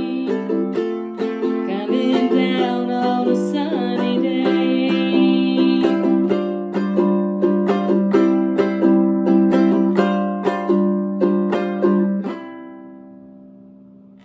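Ukulele strumming chords, with a voice holding a sung note over it in the first few seconds. Near the end the strumming stops on a final chord that rings out and fades, then cuts off.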